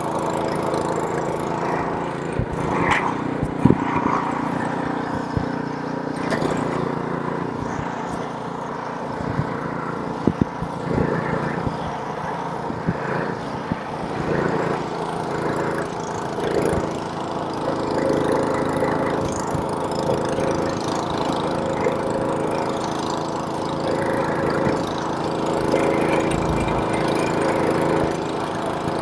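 Small gasoline engine of a snowblower running steadily, with a few short sharp knocks now and then.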